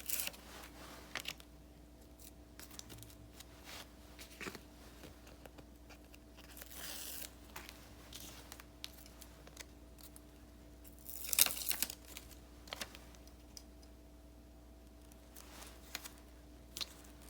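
Paper stickers and paper being peeled and handled by hand: scattered light taps and crinkles, with a longer rustle about seven seconds in and a louder one about eleven seconds in.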